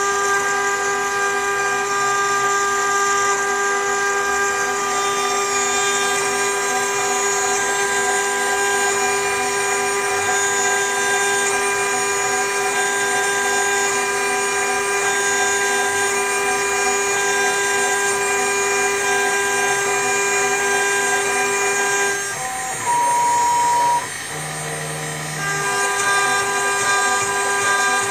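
CNC router spindle motor running with a steady, high, multi-toned whine while engraving. About 22 seconds in, the whine breaks off for roughly three seconds: first a brief single tone sounds, then a low hum, and then the steady whine returns.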